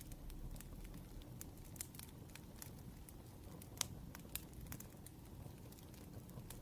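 Wood fire crackling: irregular sharp pops and snaps over a low steady rumble, with one louder pop a little before the middle.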